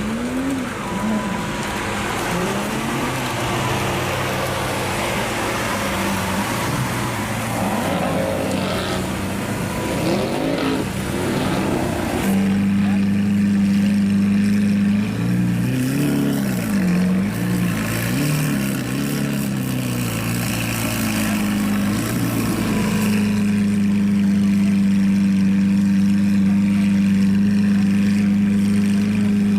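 Straight-piped Lamborghini engine revved in short rising blips over a steady hiss. About a third of the way in it drops to a loud, steady idle drone, is blipped several more times, then settles back to idle.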